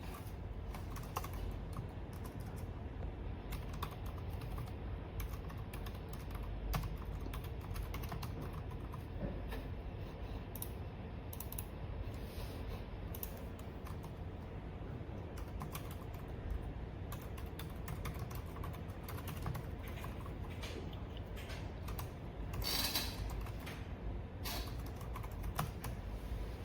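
Typing on a computer keyboard: irregular key clicks, with a quicker flurry near the end, over a low steady hum.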